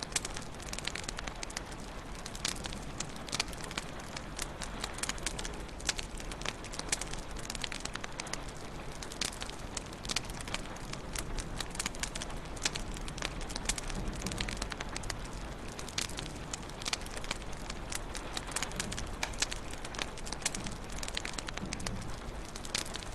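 Wood fire crackling in a fireplace: steady, dense, irregular pops and snaps over a soft hiss.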